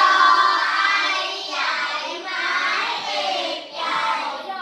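A class of young children's voices singing together in unison, with long drawn-out notes.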